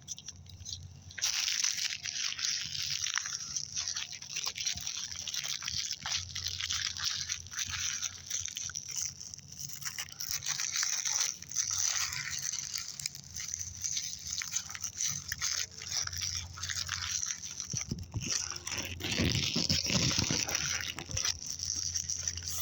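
Ground bloom flower fireworks spinning on the ground, a crackling hiss that swells and fades, briefly dropping away right at the start before picking up again.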